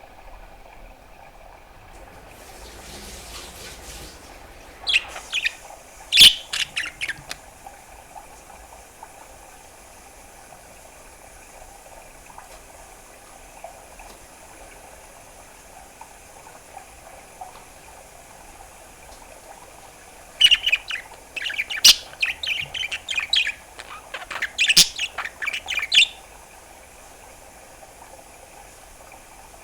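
Pet budgerigar chattering in two bouts of rapid chirps and clicks: a short one about five seconds in and a longer one of about six seconds starting some twenty seconds in.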